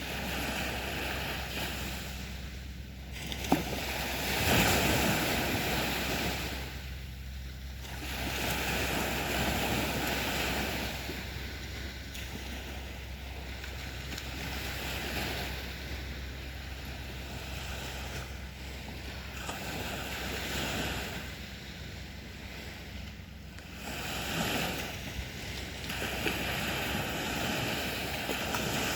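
Sea waves breaking and washing up a beach, a new surge every few seconds. There is a single sharp click about three and a half seconds in.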